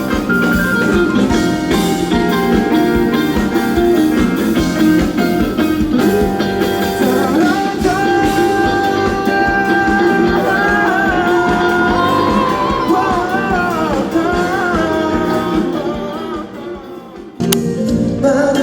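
A live band with guitar and a singer plays a rock-pop song. Near the end the music dips, then cuts sharply to a different live song.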